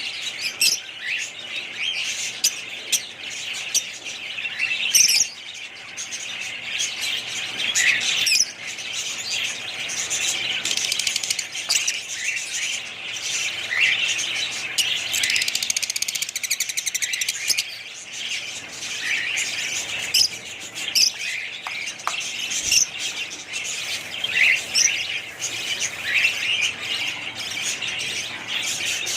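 Many small birds chirping and calling together, a dense unbroken chorus of short high chirps and twitters.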